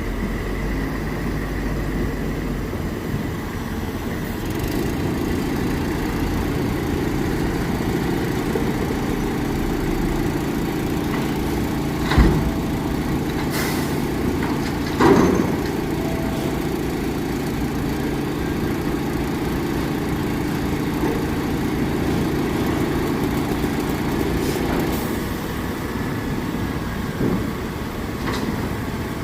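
Heavy diesel engines of dump trucks and loading equipment running steadily, with a few sharp knocks, two of them loud, about twelve and fifteen seconds in.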